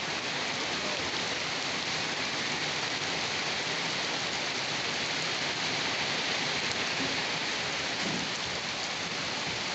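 Steady rain falling and pattering on surfaces, an even continuous hiss.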